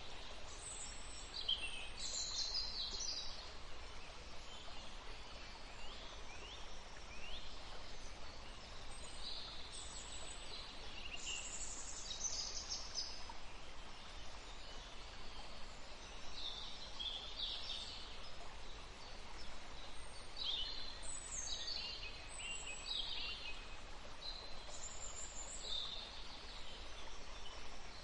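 Songbirds singing and chirping in short, high-pitched phrases and trills, coming every few seconds, over a steady background hiss.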